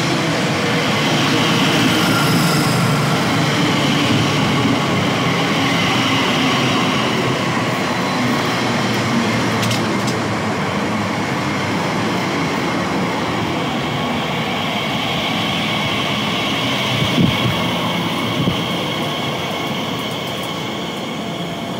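A train moving along the track through the station: a steady rush of wheels on rail with a high whine over it, and two short knocks near the end.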